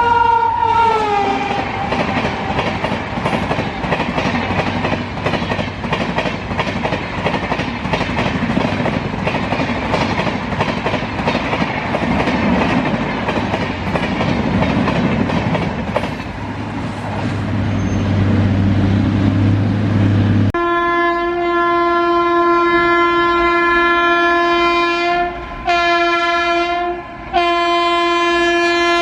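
An express train passing at high speed: its horn drops in pitch as it goes by, then its wheels clatter rapidly over the rail joints for most of the stretch. About 20 seconds in, a train's horn starts and sounds steadily, broken twice by short gaps near the end.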